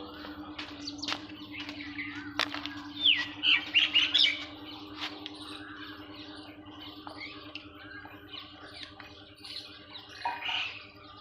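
Birds chirping and squawking, with a loud cluster of calls about three to four seconds in, over a steady low hum.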